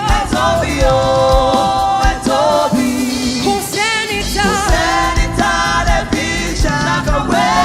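Gospel praise music: voices singing held, wavering notes over a band with a steady drum beat.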